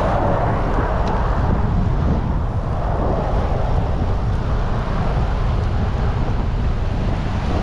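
Wind buffeting an action camera's microphone during a bicycle ride: a steady, loud low rumble that flutters constantly.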